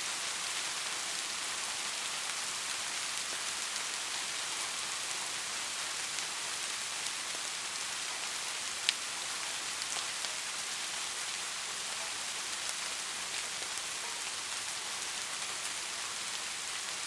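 Steady rain falling: an even hiss with scattered light drop taps, and one sharper, louder tap a little before halfway through.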